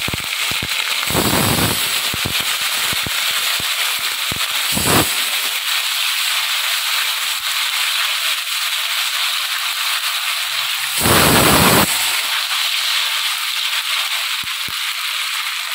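Ginger-garlic paste and whole spices sizzling steadily in hot oil in a clay pot, with small crackles. Firecrackers go off outside three times, each a short bang: about a second in, about five seconds in, and at eleven seconds.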